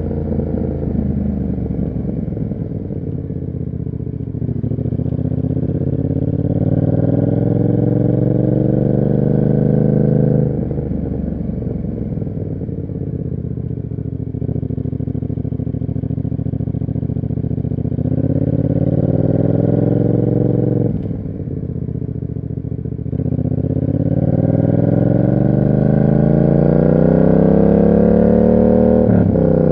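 Yamaha MT-07's parallel-twin engine through an SC Project aftermarket exhaust, accelerating and pulling up through the revs, with the pitch dropping sharply at gear changes about three times. There is a steadier cruising stretch in the middle.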